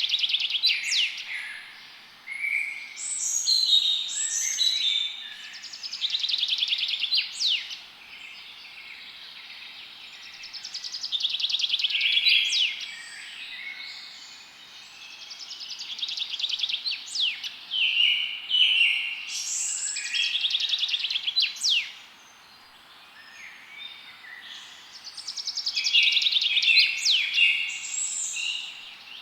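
Songbirds singing in a forest, several voices overlapping: phrases of fast trills and quick sweeping whistled notes, each a few seconds long, with short lulls between them.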